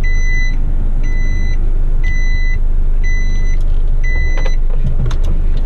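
A truck's reversing alarm beeps in a steady high tone about once a second, five times, then stops about four and a half seconds in, over the truck's diesel engine running.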